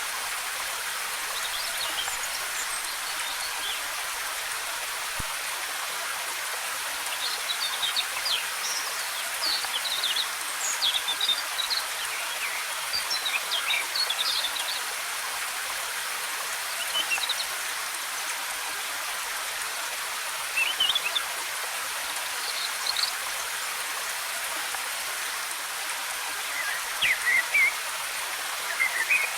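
Waterfall: a steady rush of falling water, with forest birds chirping in short scattered calls over it, busiest around the middle and again near the end.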